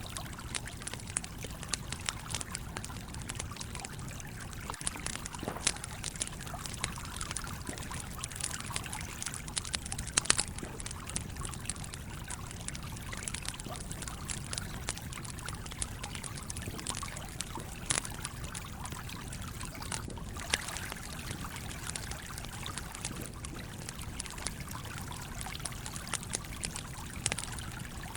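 A stream flowing steadily, with a campfire crackling over it in small irregular pops; two sharper pops stand out, about ten and eighteen seconds in.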